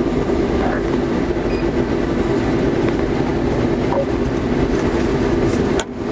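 Steady vehicle rumble with a low hum, loud and unbroken, cutting off abruptly near the end.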